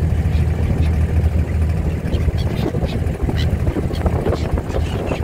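Cruise boat's engine running with a steady low drone, and from about two seconds in a string of short, high calls from the seabirds flying alongside.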